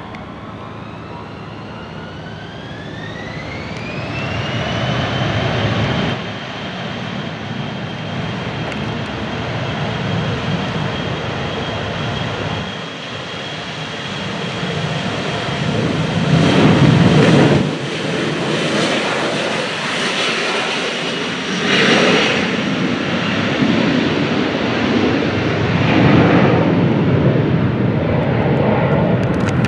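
Jet aircraft engines spooling up. A whine rises in pitch over a couple of seconds and then holds steady under a loud rumble that swells in waves.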